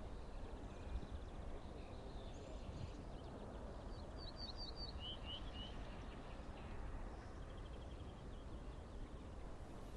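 Quiet outdoor background noise with a small bird chirping a quick run of short notes about four seconds in.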